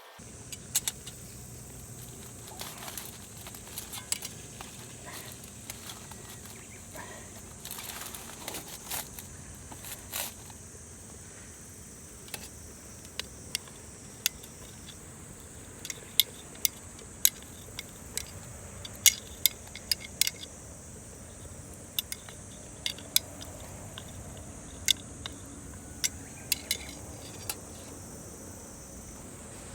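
Wood fire crackling in a bonfire stand, with sharp pops and snaps that come more often in the second half, over a steady high insect chorus.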